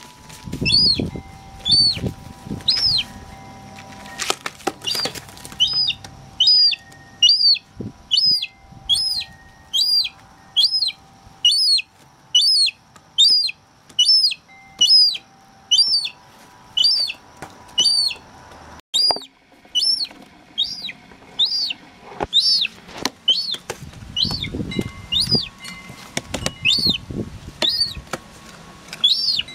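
Young hand-raised herring-type gull chick giving a long, steady series of high, piercing peeps, a little more than one call a second.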